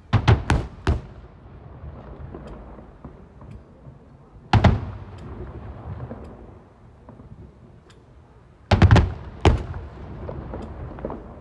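Aerial fireworks shells bursting: sharp bangs in three bursts, a quick cluster of several at the start, a single one a little under halfway through and another cluster about three quarters through, each trailing off in a rumbling echo.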